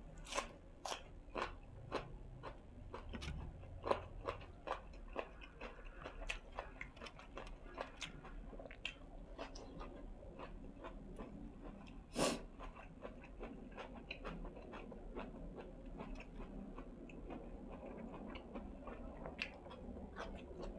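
A person chewing and crunching food close to the microphone, with many short crisp bites and smacks. There is one louder crunch about twelve seconds in.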